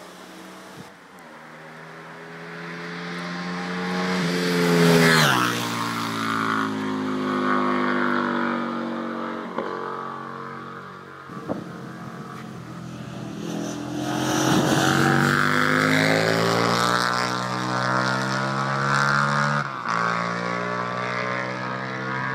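2001 Aprilia RSV Mille's V-twin through a titanium exhaust as the bike rides by. The note rises and grows louder, drops sharply in pitch as it passes about five seconds in, then sinks away. A second run rises and falls more gradually.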